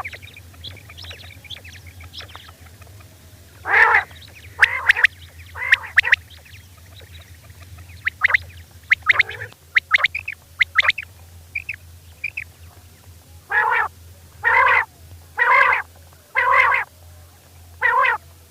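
Female quail calling: short repeated call notes, some bunched together and then a run of five about a second apart near the end, with fainter chirps between. A low steady hum runs underneath.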